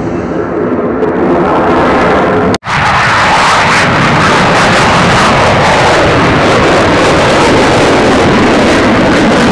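Loud aircraft engine noise from aircraft flying at an airshow. It breaks off abruptly about two and a half seconds in, then runs on as a steady, dense rush of engine noise.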